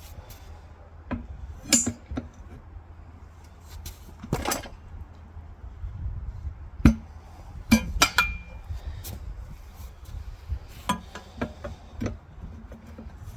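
Scattered metallic clinks and knocks of hand tools and parts being handled during a trailer wheel repair, one hit ringing briefly about eight seconds in, over a low steady rumble.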